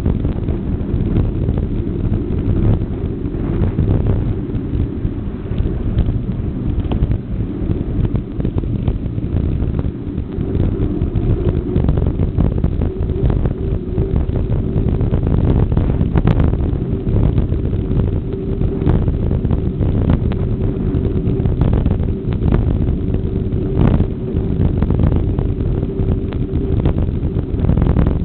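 Wind buffeting the microphone while riding, a continuous low rumble with scattered knocks and a faint steady hum underneath.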